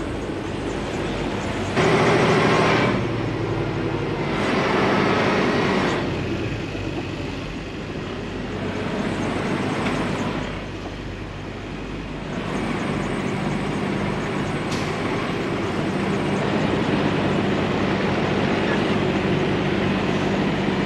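Semi truck's diesel engine running steadily, with two louder rushes of noise in the first six seconds and a single sharp click later on.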